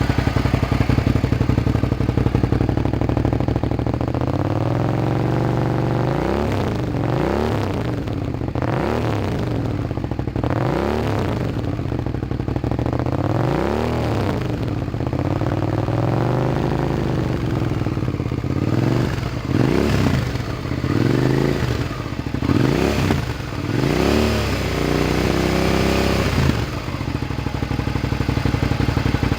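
Suzuki SV650's V-twin engine through a Shark Competition DSS can with its dB killer removed, idling and then revved in a series of throttle blips: slower rises and falls at first, then quicker, sharper blips, settling back to idle near the end.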